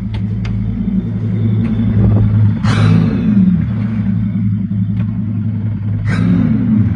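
Mercury V10 boat engines running just after start-up, a loud low steady rumble at idle. Two brief sharper bursts come about three and six seconds in, with the engine note wavering after each.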